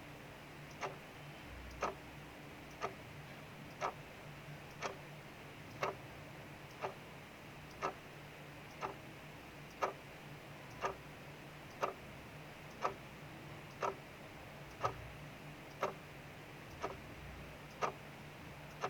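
Clock ticking steadily, about one tick a second, over a steady hiss of rain outside.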